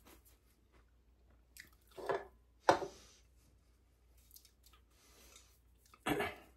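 A person eating a Subway sandwich: quiet chewing, broken by three short louder mouth sounds about two seconds in, just after, and near the end.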